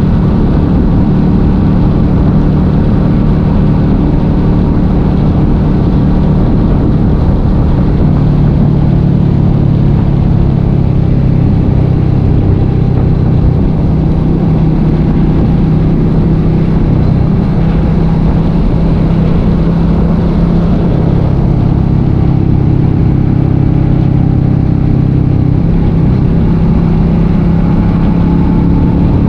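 Motorcycle engine running steadily at road speed, its pitch shifting a little as the speed changes, with wind rushing over the microphone.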